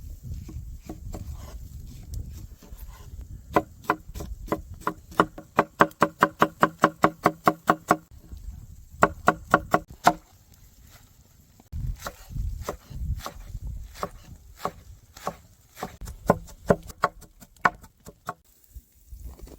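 Knife chopping on a wooden cutting board: a fast, even run of sharp knocks, about three a second, each with a short ringing tone from the board. After a pause come looser, scattered chops, with a low rumble in between.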